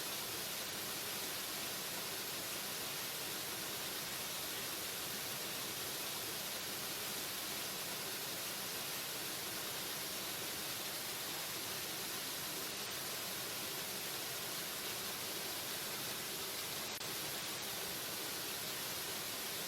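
Waterfall: the steady rush of falling water, an even, hissy sound that does not change.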